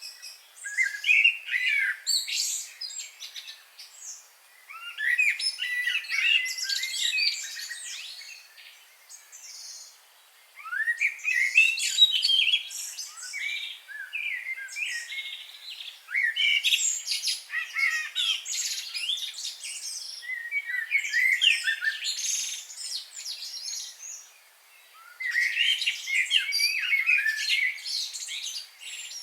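Songbirds singing and chirping in repeated bouts of rapid, twittering notes with short sweeping phrases, a few seconds each, separated by brief lulls.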